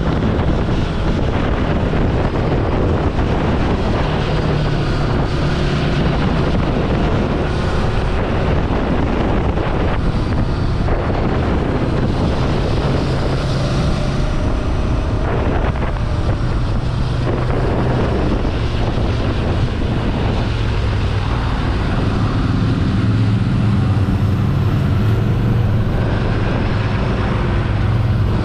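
Ducati Scrambler Sixty2's air-cooled 399 cc L-twin engine running under way, its note shifting up and down several times, under heavy wind noise on the microphone.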